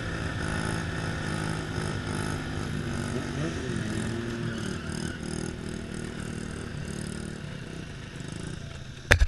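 Small mini-bike engine running, its revs rising and falling. A sudden loud sharp knock near the end.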